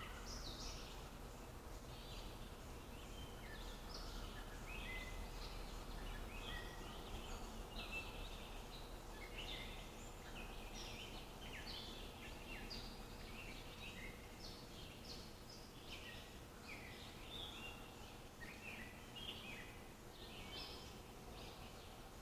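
Wild songbirds chirping, a dense run of short, high calls that overlap throughout, over a faint steady background hiss and hum.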